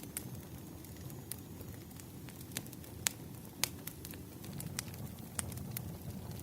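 Firewood burning: a steady low rumble of the fire with irregular sharp crackles and pops, the loudest pair of pops a little after three seconds in.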